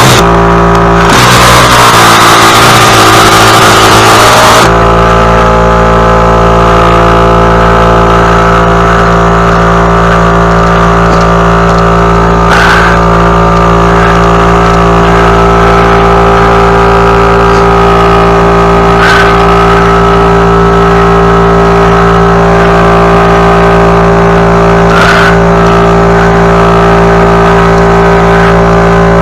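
Small petrol engine running steadily at constant speed, harsher and noisier for the first few seconds, then an even drone.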